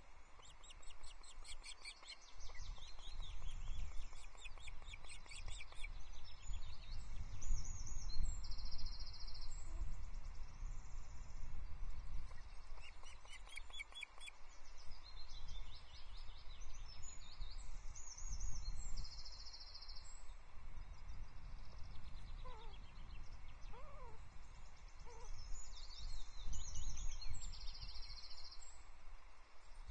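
Birds chirping in quick repeated series, with several short, steady, high notes, over a steady low rumble of wind on the microphone.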